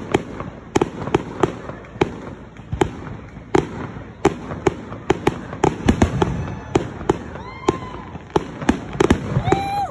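Aerial firework shells bursting in quick, irregular succession, about three sharp bangs a second.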